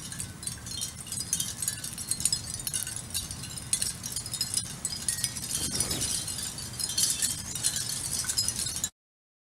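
Wind chimes tinkling with many quick, high clinking notes over a low outdoor rumble; the sound cuts off suddenly near the end.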